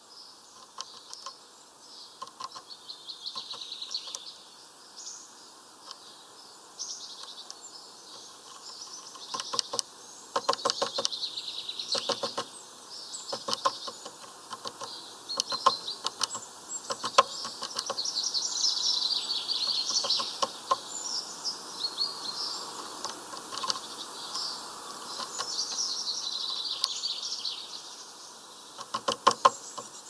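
Small birds chirping and twittering throughout, busier in the second half, with several runs of rapid sharp taps of birds pecking at seeds and nuts on the wooden feeder.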